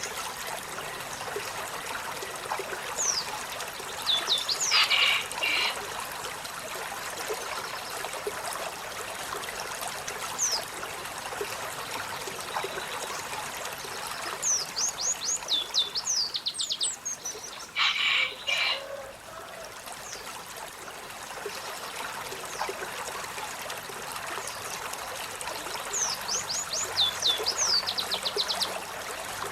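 Olive-backed sunbird singing: bursts of quick, high, falling notes, heard four times, over a steady rush of running water.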